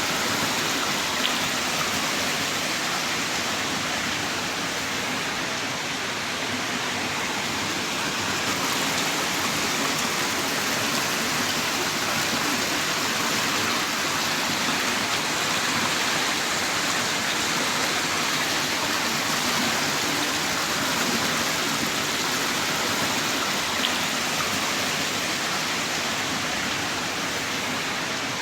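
Heavy rain downpour: a steady, dense hiss of falling rain, with a faint click about a second in and another near the end.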